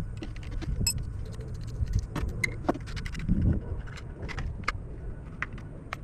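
Irregular light metallic clicks and clinks from handling, over a low rumble.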